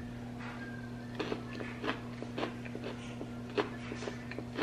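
A person chewing a bite of a Reese's Take Five bar (pretzel, caramel, peanut butter and chocolate), with irregular crunches starting about a second in. A steady low electrical hum runs underneath.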